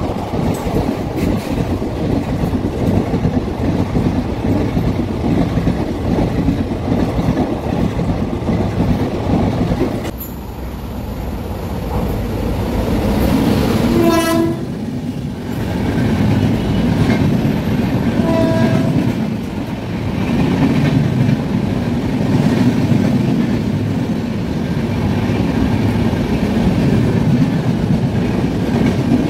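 Passenger express train coaches rushing past the platform at speed, their wheels rumbling and clattering on the track. About ten seconds in the sound cuts to a second passing train, whose WAP-7 electric locomotive sounds its horn in a blast of about a second, then a shorter toot a few seconds later, before its coaches roll past.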